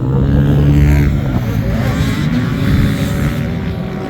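Dirt bike engine running loudly under throttle, its pitch shifting as the rider works the throttle.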